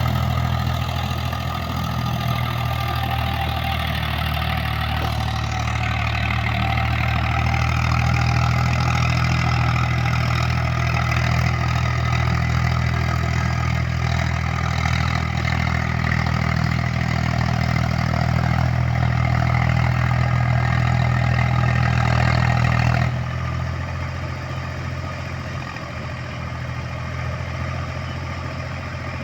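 Eicher 485 tractor's three-cylinder diesel engine running steadily, with a noisier, higher-pitched layer over the engine note. About 23 seconds in, that higher layer drops away and the sound becomes quieter.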